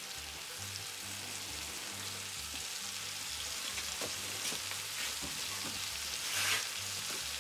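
Chopped carrots and onions frying in hot fat in a cast-iron Dutch oven: a steady sizzle, with a few light clicks and a brief louder swell of sizzling about six and a half seconds in.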